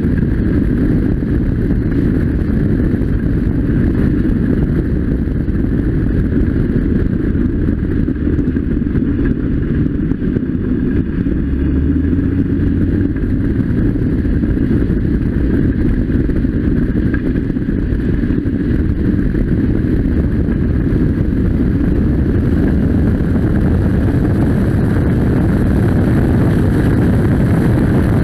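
Westfield sports car's Ford Duratec engine running steadily under way at track speed, heard onboard from the open cockpit, with wind rushing over the microphone.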